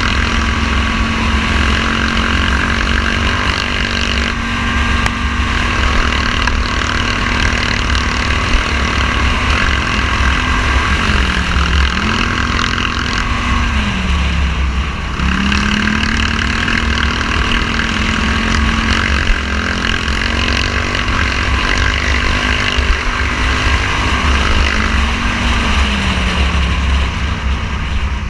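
Polaris Scrambler XP 1000 ATV engine running at a steady pace on an off-road ride, its revs dropping and climbing back three times as it slows and speeds up, over a steady low rumble.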